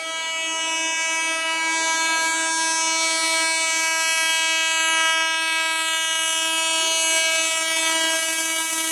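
Indian Railways train horn sounded in one long unbroken blast at a steady pitch, growing louder over the first two seconds as the train approaches.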